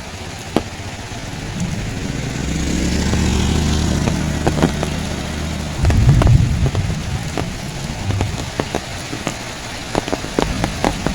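Heavy rain falls with scattered close drops ticking, while a motor vehicle passes. Its low rumble swells from about two seconds in, is loudest around six seconds, then fades.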